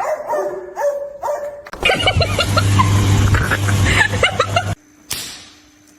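A dog gives a few short barks, then a loud, noisy stretch with a steady low hum and many quick high-pitched chirps that cuts off suddenly after about three seconds.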